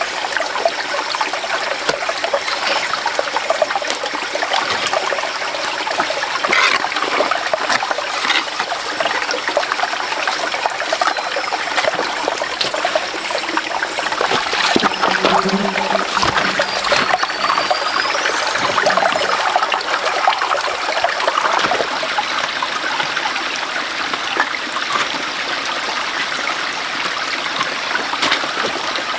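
Running water trickling and splashing steadily, like a small rain-fed stream running over stones.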